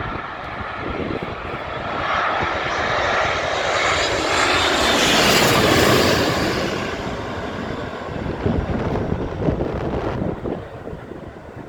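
Airliner passing low overhead on its landing approach in strong wind, its engine noise swelling to a peak about five to six seconds in and then fading away. Wind gusts buffet the microphone throughout, most strongly near the end.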